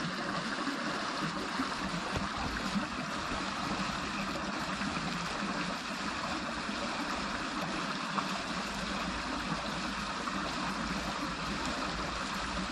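Small creek running over riffles: a steady sound of flowing water.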